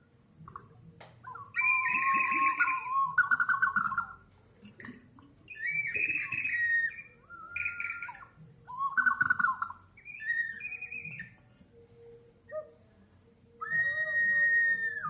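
Pots sounding as whistles, giving bird-like warbling calls: a series of short trilling whistles, each about a second long, then one long steady whistle tone near the end.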